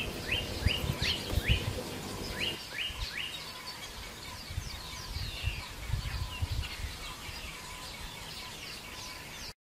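Small birds chirping outdoors: a quick run of short, falling-pitch chirps, several a second, for the first few seconds, then sparser and fainter calls over low rumbling field noise. The sound cuts off suddenly near the end.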